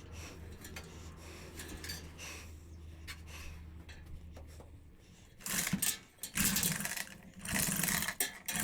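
Rubbing and scraping of parts being handled and worked into place, in loud bursts over the second half, with a low steady hum underneath during the first half.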